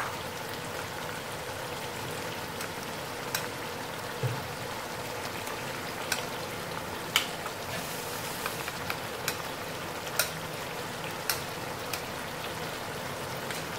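Steady sizzle of chicken and masala frying in a karahi, with scattered sharp clinks of a steel spoon against a glass bowl as spice powder is stirred into yogurt.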